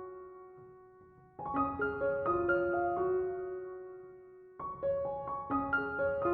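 Background music: a gentle solo piano playing short phrases of notes that ring and fade away, with new phrases starting about a second and a half in and again about four and a half seconds in.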